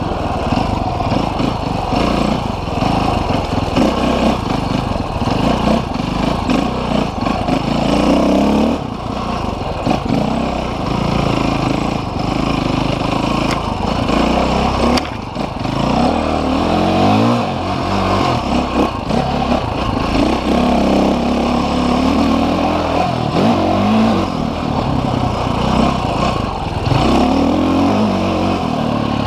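Off-road motorcycle engine running under way, its revs rising and falling again and again as the throttle is opened and eased off.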